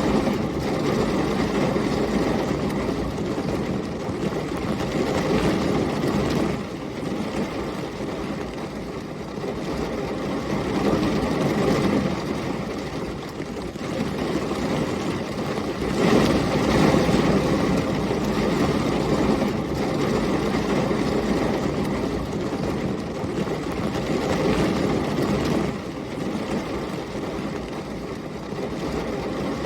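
Heavy rain with storm wind, a dense steady rush that swells and eases every few seconds and is loudest about halfway through.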